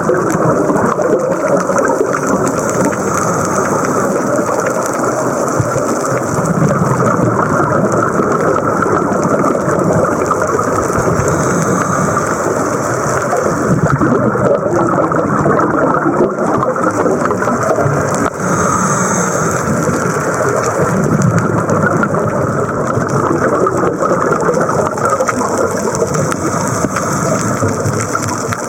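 Muffled, steady rushing noise of a scuba diver's underwater recording, with a brief brighter hiss about every seven or eight seconds.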